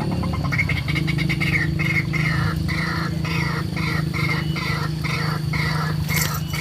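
Rhythmic animal calls repeating about twice a second, over a steady low hum.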